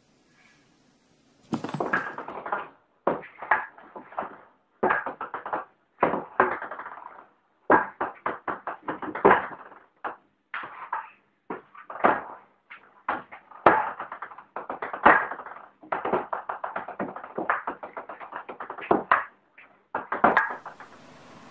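Ping-pong ball bouncing on a table-tennis table and being hit back and forth, in quick runs of clicks broken by short pauses.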